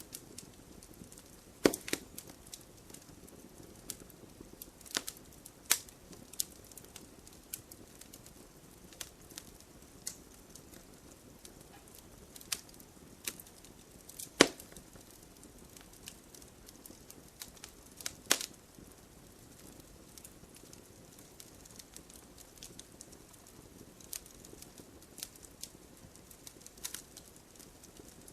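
Firewood burning, crackling: sharp irregular pops over a soft steady hiss. A few louder snaps stand out, the loudest about halfway through.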